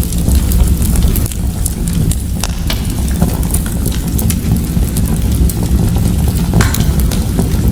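Fire crackling in a fireplace: frequent irregular pops and snaps over a steady low rumble.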